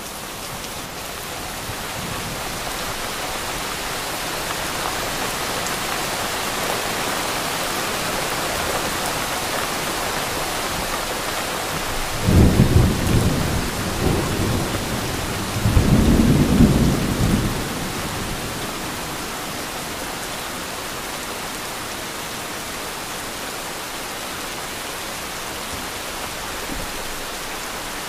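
Heavy rain pouring steadily, with two rolls of thunder about halfway through, a few seconds apart; the thunder is the loudest sound.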